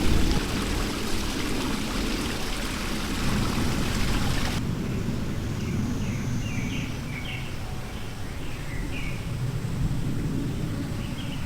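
Outdoor forest ambience: a steady rushing hiss that cuts off abruptly about four and a half seconds in, after which a few short bird chirps sound over a low rumble.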